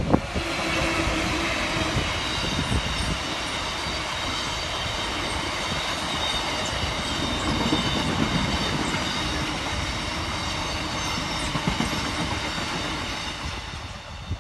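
Diesel-hauled freight train of open box wagons rolling past close by: a steady rumble with wheel clatter over the rail joints and high ringing wheel squeal, fading near the end as the last wagons go by.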